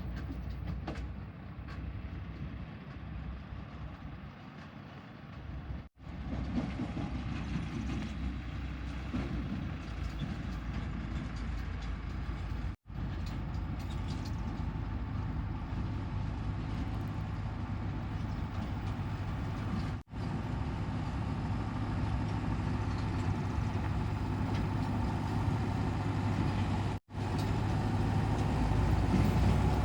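Heavy diesel engines of a backhoe loader and tipper trucks running steadily, with a low steady hum. It drops out completely for an instant about every seven seconds and grows a little louder near the end.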